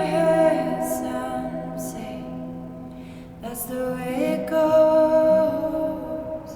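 A slow, tender song: a singer holds long sustained notes, fading out about halfway through before a new held phrase begins, over acoustic guitar accompaniment.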